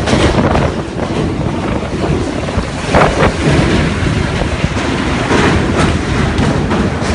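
Typhoon-force wind blowing hard straight into the microphone, a loud continuous rumbling rush that surges in gusts, most sharply about three seconds in.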